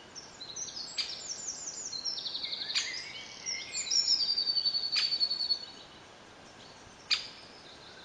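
Birdsong: several birds chirping and trilling, with a few sharp single notes, busiest in the first five and a half seconds and then thinning to one more note a second and a half later.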